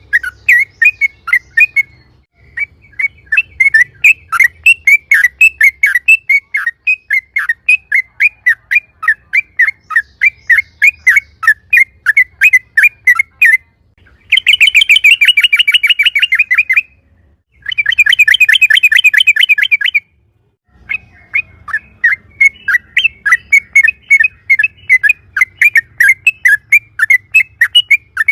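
Yellow-vented bulbul (trucukan) calling loudly in quick bubbly chirps, about four a second, broken in the middle by two long, fast rattling trills, the rapid 'ropel' run of a bird in full song.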